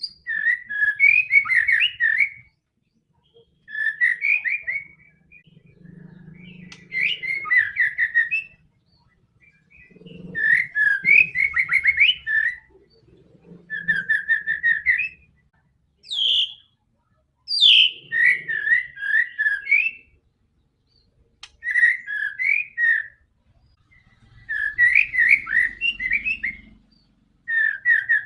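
White-rumped shama (murai batu) singing: repeated phrases of rapid, varied whistled notes, each a second or two long with short pauses between, a couple of them opening with a quick sweeping note.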